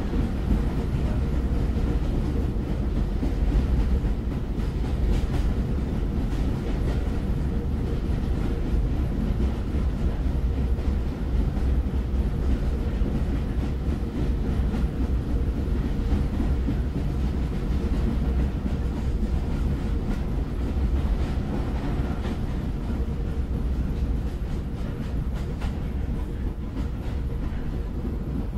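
A moving train rumbling steadily, deep and even, with an occasional faint click from the wheels on the track.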